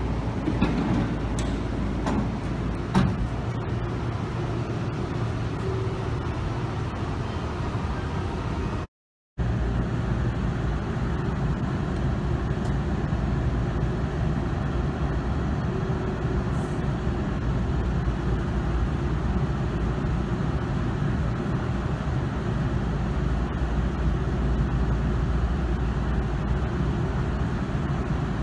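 Steady low hum of a Tobu Tojo Line commuter train standing at a station platform, its onboard equipment running. A few faint clicks come in the first seconds, and the sound drops out completely for an instant about nine seconds in.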